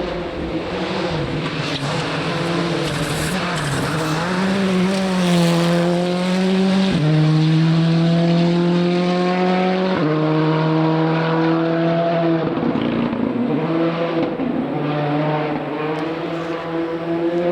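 Rally car's engine pulling hard through the gears, its pitch climbing and then dropping sharply at upshifts about seven and ten seconds in, then going off and on the throttle near the end.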